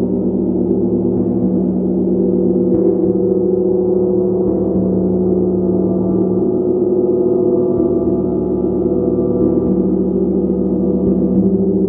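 Gong played continuously: a loud, steady wash of many overlapping sustained tones with no separate strikes standing out.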